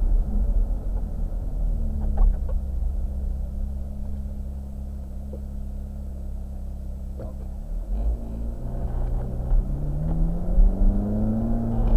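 Ferrari F430 Spider's V8 heard from the open-top cockpit, running steadily at low revs through a slow turn, then pulling away with the engine note rising over the last few seconds.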